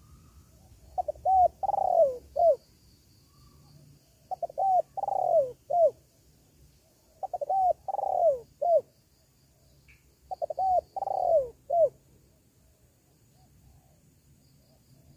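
Spotted dove (tekukur) cooing: four phrases about three seconds apart, each two or three short coos, then a longer coo falling in pitch, then a short closing note. It is the dove's song used as a lure call for wild doves.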